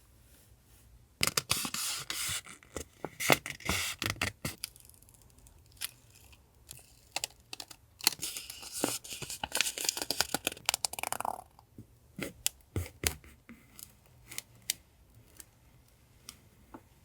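Stationery packaging being opened and handled by hand: paper and plastic tearing and rustling in two stretches, about a second in and again about halfway through, with scattered light taps and clicks of items being picked up and set down.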